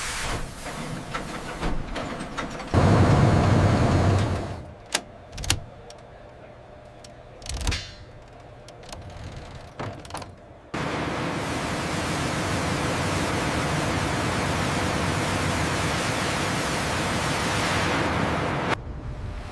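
A loud low rumble, then a few sharp knocks, then a long steady rushing noise that cuts off suddenly near the end.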